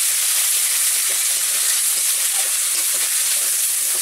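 Chopped tomato frying in hot oil with ginger paste and spices, a steady sizzling hiss: the tempering for a lentil dal.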